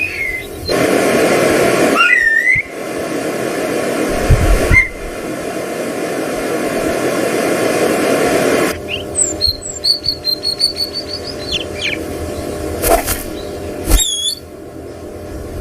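Birds chirping and whistling over a steady rushing background noise. About ten seconds in comes a quick run of high repeated notes, then a few sharp high calls near the end.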